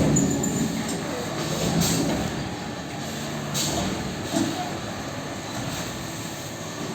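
Automatic roll packing machine running with a steady mechanical noise, a knock at the start, a short hiss of air about three and a half seconds in and another knock soon after.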